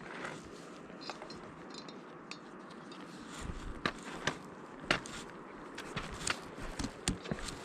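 Footsteps of a hiker on a rocky trail: irregular crunching steps and sharp clicks, coming more often in the second half, over a steady outdoor hiss.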